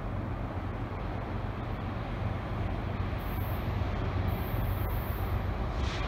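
Approaching BNSF diesel freight locomotives, heard at a distance as a steady low engine rumble that grows slowly louder.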